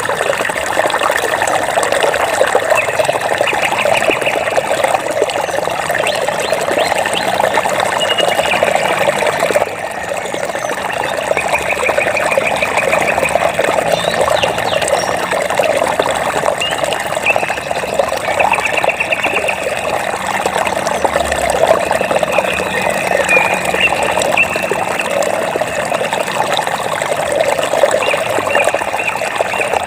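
Water trickling and splashing steadily, as from a stream or small cascade. Every few seconds a short, rapid, high trill from an animal repeats over it.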